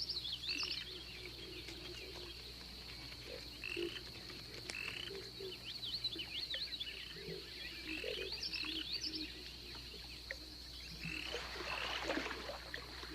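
Frogs croaking in short, repeated low calls over a steady high insect drone and scattered quick high chirps. A brief, louder rush of noise comes near the end.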